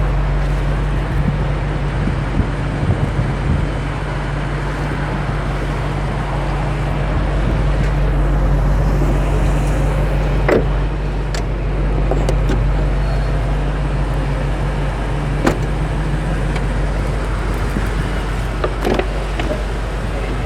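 Steady low hum of the BMW X5 M Competition's twin-turbo V8 idling, with a few sharp clicks, about 10, 15 and 19 seconds in.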